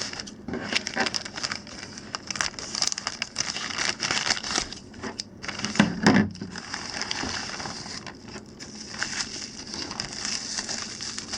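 Parcel packaging crinkling and crackling as it is handled and pulled open by hand, in quick irregular crackles, with one louder bump about six seconds in.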